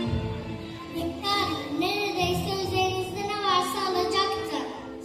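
A high voice sings a slow, wavering melody over instrumental music.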